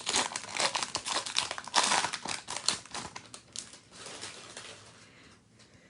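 A foil trading-card pack wrapper being torn open and crinkled by hand, with dense crackling for about four seconds that dies away near the end.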